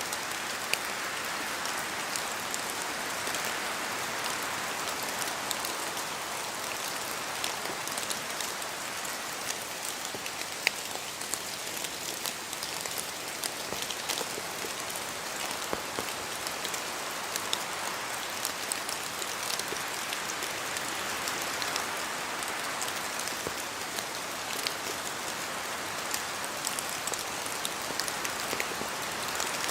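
Steady rain falling in a forest, with many individual drops ticking sharply on leaves and surfaces over a continuous patter. A gentle rise and fall in the hiss suggests wind moving through the trees.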